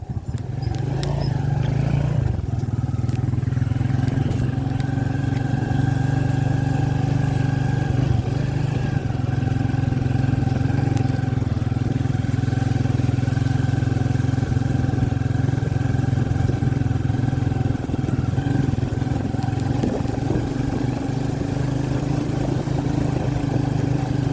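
Motorcycle engine running steadily at an even pitch while being ridden.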